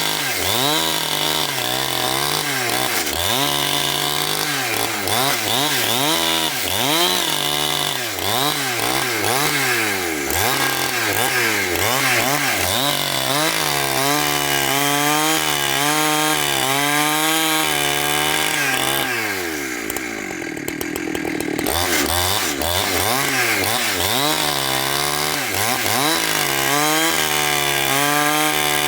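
Chainsaw engine running as it cuts wood, its pitch rising and falling over and over as the revs change under load. About twenty seconds in it drops briefly lower and duller, then picks up again.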